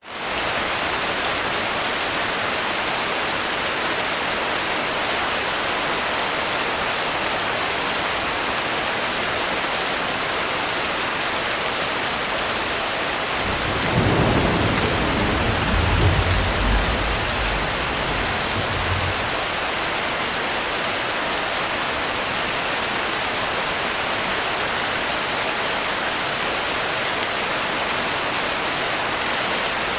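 Steady heavy rain that fades in at the start, with a roll of thunder rumbling low for about five seconds midway through.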